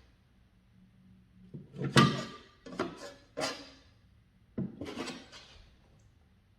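A spatula spreading and scraping wood filler into a stair nose: several short scraping strokes, the loudest about two seconds in.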